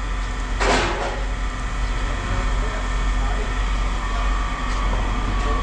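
A steady low engine rumble, like a vehicle or yard machine running, with a short sharp noisy burst, a clank or hiss, a little under a second in.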